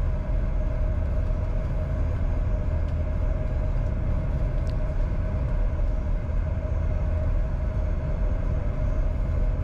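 Steady cockpit noise of a Bombardier Challenger 605 on final approach with gear down and flaps 45: a continuous low rumble of airflow and engines with a steady hum running through it.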